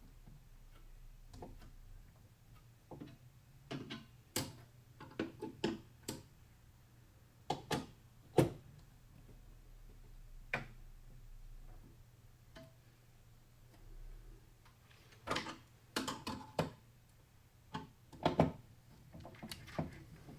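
Hands working on a desktop PC build: irregular clicks, taps and light knocks of parts and tools being handled, in clusters, with one sharper knock about eight seconds in. A faint steady low hum lies underneath.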